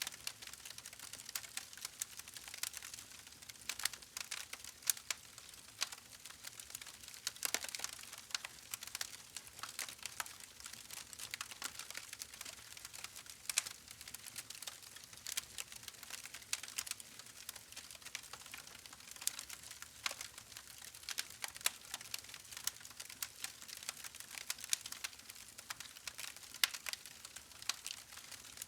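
Wood fire crackling: a steady stream of small sharp pops and snaps over a soft hiss, with now and then a louder pop.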